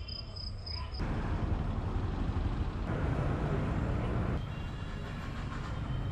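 Outdoor traffic ambience: a steady low rumble of vehicle engines with general street noise, changing abruptly about a second in, near three seconds and again past four seconds.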